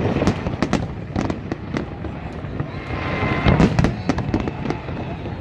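Fireworks display: a dense run of irregular bangs and crackles over a low rumble, with louder booms about three and a half seconds in.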